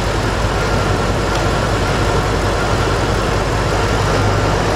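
A 5.4-litre V8 idling steadily with its ignition coil plugged back in, running smoothly at this point in a coil-by-coil misfire test.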